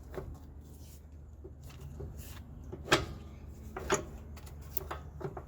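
A handful of scattered knocks and clunks, the two loudest about three and four seconds in, as a heavy truck battery is shifted into line in its battery box.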